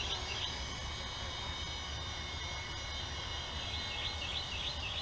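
A bird chirping in short, quickly repeated calls just after the start and again near the end, over a steady low hum.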